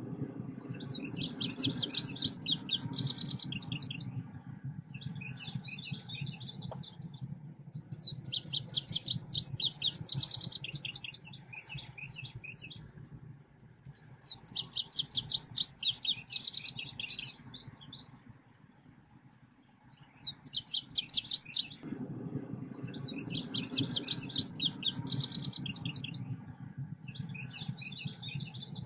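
Selendang biru bird song in a lure recording: bursts of rapid, high chattering notes, each two to three seconds long, repeating about every six seconds with softer short phrases in between. A low hum runs underneath at the start and again in the last several seconds.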